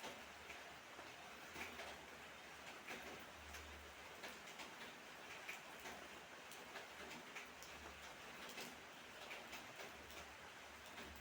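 Light rain: a faint steady hiss with drops ticking irregularly on a hard surface.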